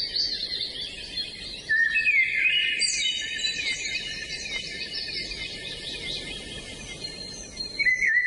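Several songbirds singing and chirping together in quick, overlapping high trills over a steady background hiss. The birdsong gets louder about two seconds in.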